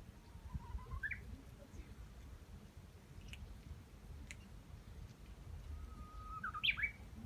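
Two drawn-out calls, each rising in pitch. The first, about a second long, comes right at the start. The second, louder one comes near the end: it holds level, then sweeps up higher.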